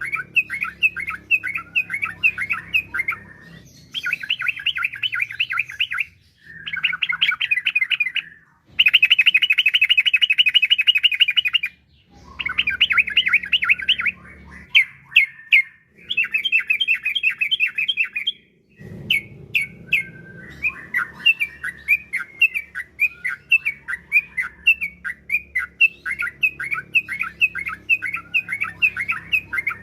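Yellow-vented bulbul (trucukan) singing in phrases of rapid chattering notes, each a couple of seconds long with short breaks between them. The loudest is a fast, even trill about a third of the way in.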